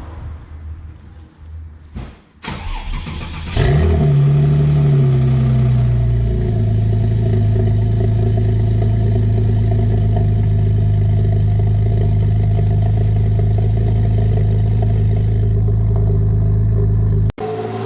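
Porsche 997.1 Turbo's twin-turbo 3.6-litre flat-six cranked on the starter and catching about three and a half seconds in, flaring up and settling into a high cold-start idle through a Cargraphic sport exhaust. The idle pitch eases down over the following few seconds, then holds steady until it breaks off abruptly near the end.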